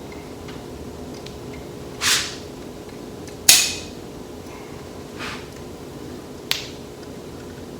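Work noises from applying seam sealer: a handful of short clicks and rasps, the loudest about three and a half seconds in and a sharp click near the end, over a steady low hum.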